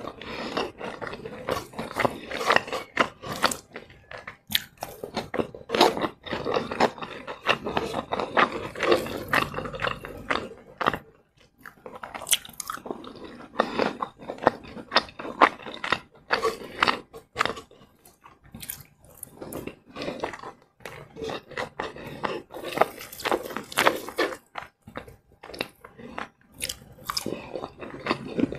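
Crispy fried chicken being chewed close to the microphone: an irregular run of crunches and mouth clicks, with short pauses about a third and about two-thirds of the way through.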